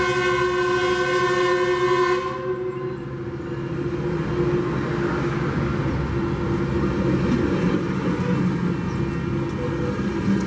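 A train horn sounds a steady blast that cuts off about two seconds in, then Metrolink bi-level passenger cars roll past with a steady rumble of wheels on rail.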